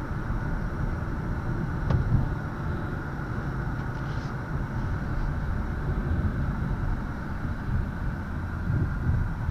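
The 2019 Ford Mustang GT's 5.0 L Coyote V8 running at a steady cruise, a low rumble mixed with road noise. There is a brief knock about two seconds in and a swell near the end.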